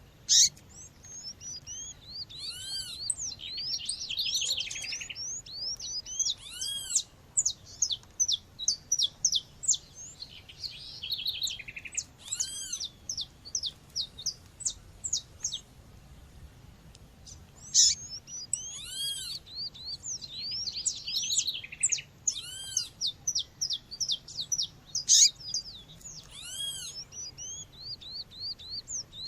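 Female seedeater calling with short high chirps, mixed with a nature-sound bed of other wild birds chirping; an arched, ringing call repeats about every four seconds over dense quick chirps. A few sharp clicks stand out, near the start, about two thirds through and near the end.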